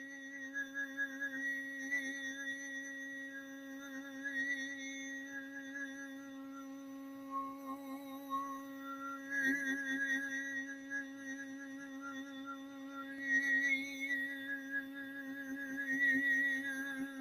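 A woman's voice toning: a sustained hum held on one steady pitch, with its overtones shifting as the vowel shape changes.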